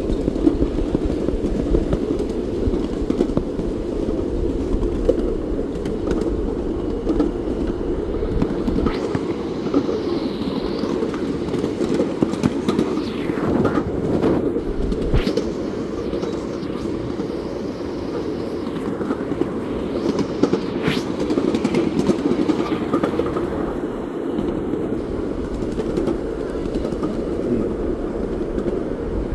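Train running on the rails: a steady rumble throughout, with a few short, sharp higher sounds around the middle.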